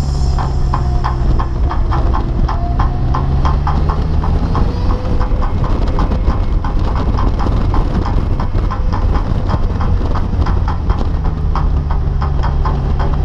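Polaris Slingshot three-wheeler driving at road speed, heard from its open cockpit: a steady low engine drone under wind rush, with a quick run of ticks, several a second, throughout.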